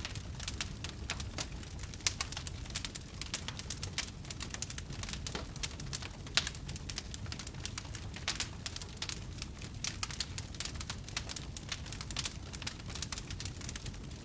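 Wood campfire crackling, a dense run of irregular sharp pops and snaps over a steady low rumble.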